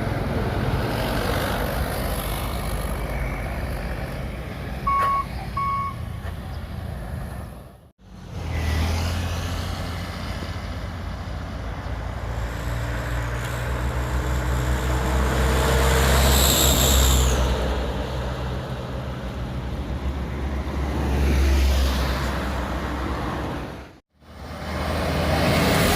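Heavy truck engines running on a road, the low drone swelling as vehicles pass, with two short beeps about five seconds in. The sound drops out abruptly twice where the footage is cut.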